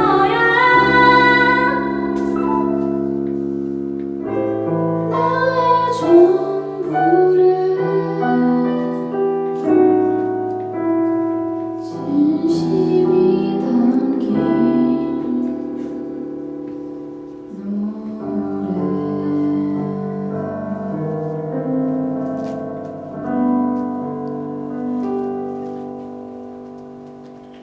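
Live cover of a slow Korean ballad: a female voice singing over piano accompaniment, getting steadily quieter toward the end as the song closes.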